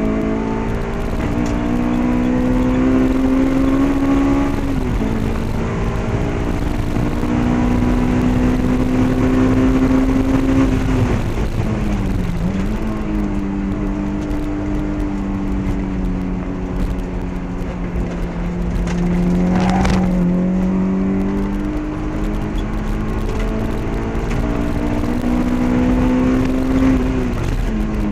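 A 2002 Honda S2000's F20C inline-four, with a cat-delete test pipe, Comptech cat-back exhaust and K&N intake, heard from inside the cabin on track. It pulls long and high in the revs, and the pitch drops sharply three times as it comes off the throttle for corners, then climbs again. There is one short knock about two-thirds of the way through.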